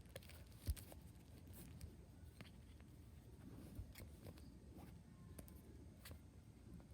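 Faint handling of packaging: scattered light clicks and rustles, with one soft thump a little under a second in.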